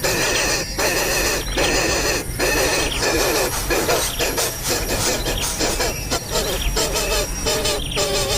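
Nestling birds giving shrill, repeated begging calls, broken by short gaps about once or twice a second.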